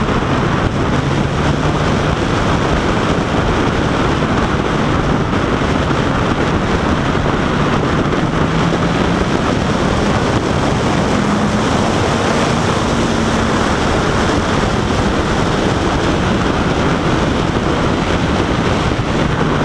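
Wind rushing over the microphone at riding speed on a Honda CBR1000RR Fireblade, with the bike's inline-four engine running underneath, its note rising and falling a little.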